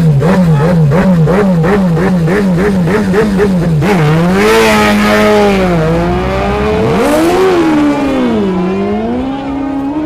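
Superbike engines revving hard. For about four seconds the throttle is blipped rapidly, four or five times a second. Then the revs sweep up and down more slowly under a hiss.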